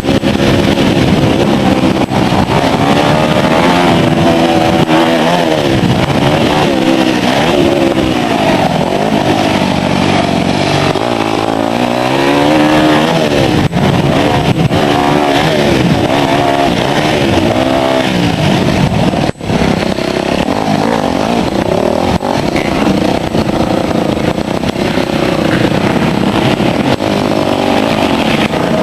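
2006 Yamaha YZ250F four-stroke dirt bike engine revving up and down continuously as it is ridden hard around a motocross track, with one brief sudden drop in sound about two-thirds through. The bike's exhaust cam is set one tooth off, which the owner says kept it from running as well as normal.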